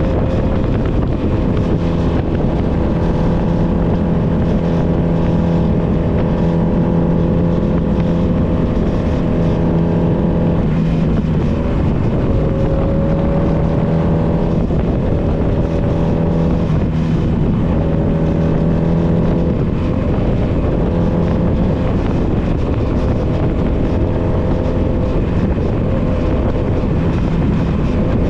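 Honda Nighthawk 250's air-cooled parallel-twin engine running steadily under way, with wind rushing over the microphone. The engine note wavers briefly twice near the middle, then settles again.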